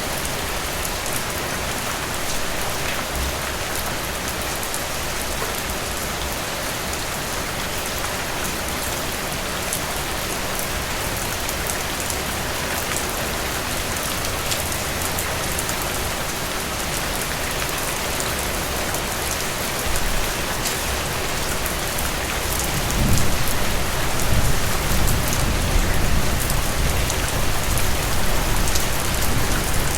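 Steady rain falling, with scattered individual drops ticking through the hiss. A low rumble comes in about two-thirds of the way through and stays under the rain.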